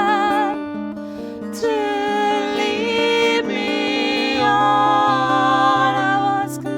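Acoustic song passage with no words: guitar accompaniment under a sustained, wavering melody line. A lower bass note comes in about four and a half seconds in.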